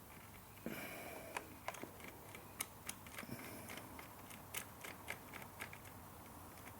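Faint, irregular light clicks and taps of a hand tool working the bolts of a newly fitted PCV valve on an engine, with a brief rustle of handling about a second in.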